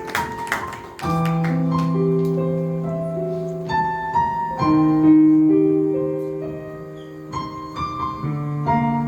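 Piano playing slow, sustained chords with a simple melody on top, entering about a second in: the introduction to a song.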